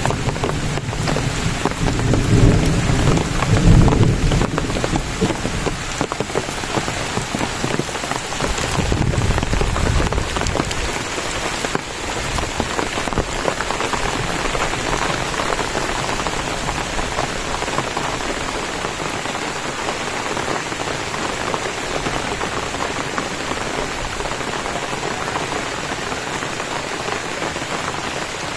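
Steady heavy rain pouring down, with low rumbles of thunder in the first few seconds and again about nine seconds in.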